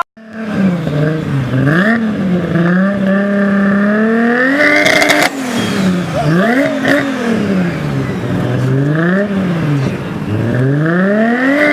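Car engine with a loud aftermarket exhaust revved up and down over and over, the pitch climbing and dropping about five times, with one longer climb in the first half.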